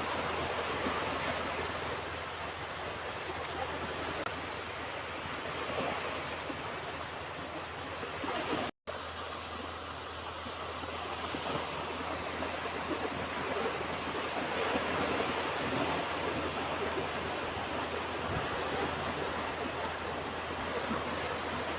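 Ocean surf washing steadily onto a beach in a continuous rush of water noise that swells and eases gently. The sound drops out completely for an instant about nine seconds in.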